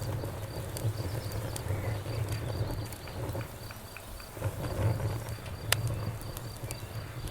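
Campfire burning, with a low rumble from the flames and scattered sharp crackles and pops of burning wood. An insect chirps steadily in a fast, even, high-pitched pulse.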